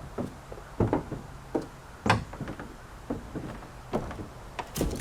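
A dozen or so irregular knocks and clunks, sharp and short, the loudest a little under a second in and about two seconds in: handling and tapping while working on a truck's body.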